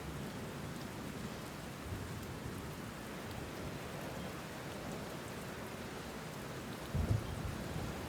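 Steady rainfall, with a brief low rumble of thunder about seven seconds in.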